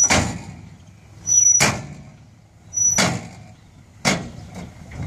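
Dump truck's metal tailgate banging shut four times, about a second and a half apart, the first three bangs each preceded by a brief high squeak, over a low engine rumble.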